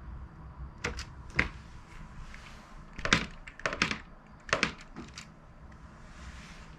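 Computer keyboard keys being pressed: about a dozen sharp clicks in small clusters of two or three.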